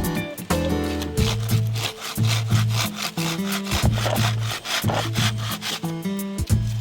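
Saw cutting firewood with quick, even back-and-forth strokes, over background music.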